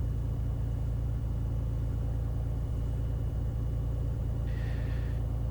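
Beechcraft Bonanza's six-cylinder piston engine and propeller running steadily at idle on the ground, with a brief hiss near the end.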